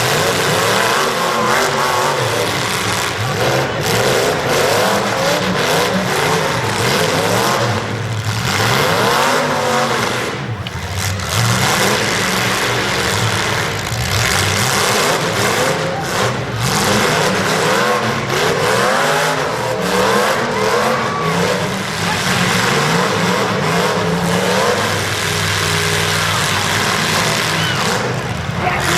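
Several demolition derby cars' engines revving hard together, pitches rising and falling over one another without a break.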